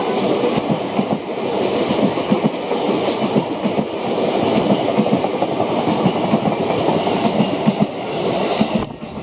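Limited express electric train passing through the station at speed, its wheels clacking rapidly over the rail joints; the noise drops away suddenly near the end as the last car passes.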